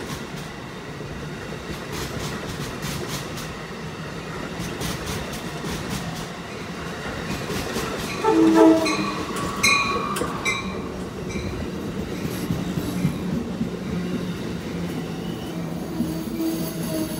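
Train running through the station, its wheels clicking over the rail joints, with the horn sounded in a couple of short blasts about halfway through.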